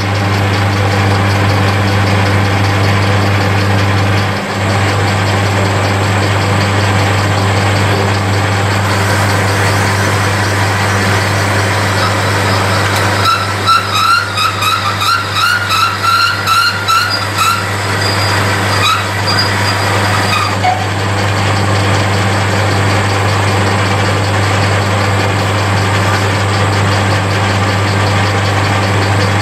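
Metal lathe running at low speed while an expanding reamer is fed through a cylinder casting's bore. From about twelve to twenty seconds in, the reamer chatters with a rapid, pulsing squeal, chatter that leaves small marks and ridges in the bore.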